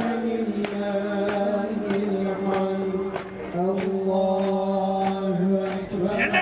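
Male voices chanting in long held notes that step slowly between pitches, with faint regular ticks about every two-thirds of a second.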